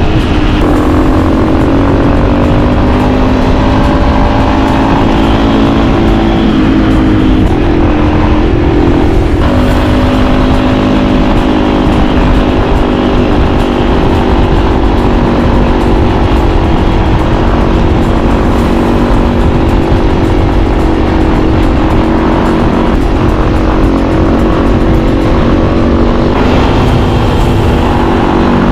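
Motorcycle engine running steadily under way, its pitch shifting a few times as the speed changes, with wind rumbling on the microphone.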